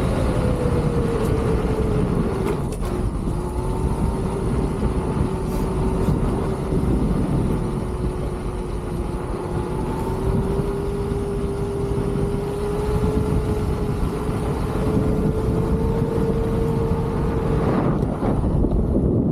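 Electric unicycle hub motor whining while riding, its pitch dropping a few seconds in and climbing slowly back as speed changes, over rushing wind on the microphone. The whine stops near the end.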